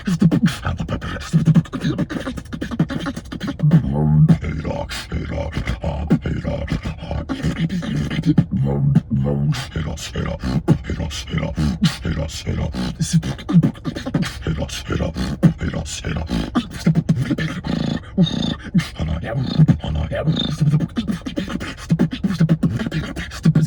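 Human beatboxing: a fast, continuous rhythm of vocal kick drums, snares and hi-hat clicks over a deep bass tone.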